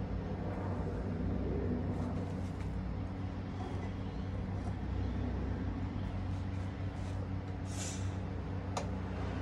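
Small 12V dashboard evaporative air cooler's fan running steadily with a low, even hum. A short hiss comes about eight seconds in, and a sharp click just after.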